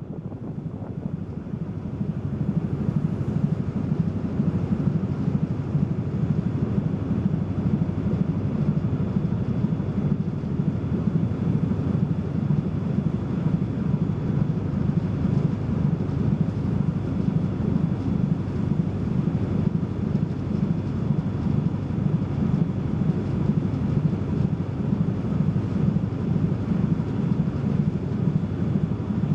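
Steady low rumble of a car ferry under way, its engines running, growing louder about two seconds in and then holding even.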